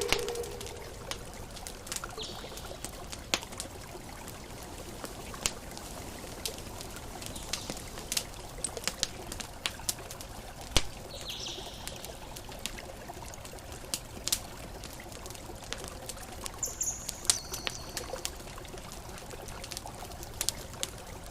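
Campfire crackling, with many sharp irregular pops, over a steady wash of water from ocean waves.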